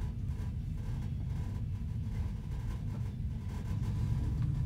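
Low, steady rumble of a moving passenger train, heard inside a compartment of an Ammendorf sleeping car.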